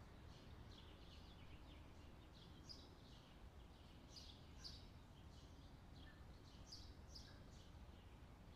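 Faint chirping of small birds: short, high notes falling in pitch, scattered irregularly and at times several a second, over a low steady hum.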